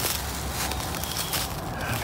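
A person's footsteps through woodland ground cover: an irregular run of rustles and crackles underfoot.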